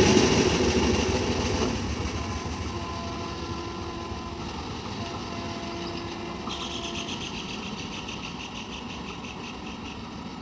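Express train's last coaches running away along the track, their wheel rumble fading steadily into the distance. A faint, high, pulsing sound starts about six and a half seconds in.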